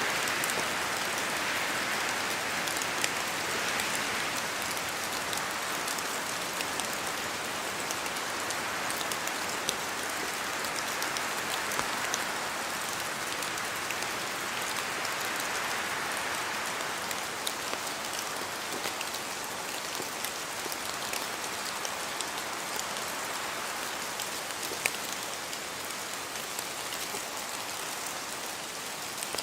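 Steady rain falling in a forest, with a dense patter of drops and sharper individual drops dripping from the trees.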